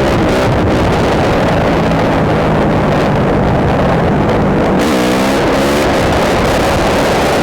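Suzuki RMZ250 dirt bike's single-cylinder four-stroke engine running under way over heavy noise. The pitch holds fairly steady, then dips and climbs again about five seconds in as the revs change.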